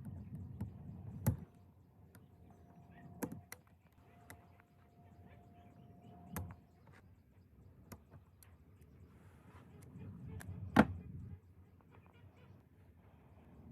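A few sharp knocks or clicks, about four spread seconds apart, the loudest near the end, over a low rumble that comes and goes.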